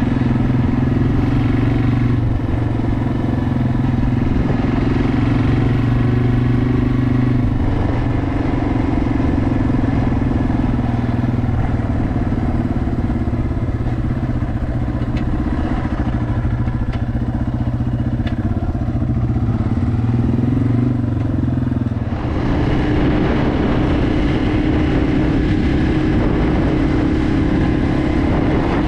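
Yamaha TW200's single-cylinder four-stroke engine running steadily while the bike is ridden on the road. About three-quarters of the way through, the steady engine note gives way to a rougher, noisier rush.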